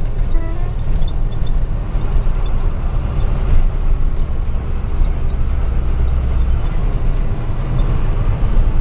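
Loaded truck's diesel engine running while driving, a steady low rumble that eases slightly about six and a half seconds in.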